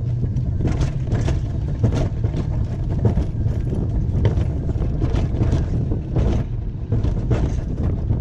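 Wiegand alpine coaster sled rolling along its steel track: a steady low rumble from the wheels, with irregular clacks and knocks.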